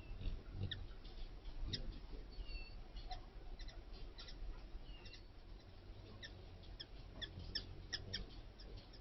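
Faint, high squeaks and chirps from small animals, coming in quick irregular runs that grow busier in the second half, with a few short whistles among them.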